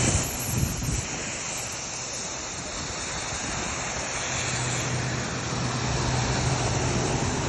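Shakti Technology 6 HP Mega Force pressure washer running, its high-pressure water spray hissing steadily over the hum of its engine. The hum grows stronger about halfway through.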